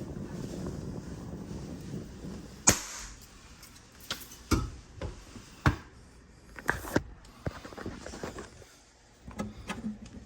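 A steady rushing flame noise, cut off by one loud sharp pop about two and a half seconds in. Scattered clicks and knocks of tools being handled follow.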